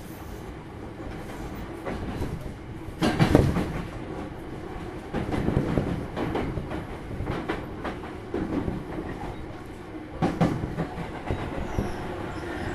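Running noise aboard a JR East 205 series commuter train's motor car at speed: a steady rumble of wheels on rail with irregular clattering. The clattering is loudest about three seconds in and again about ten seconds in.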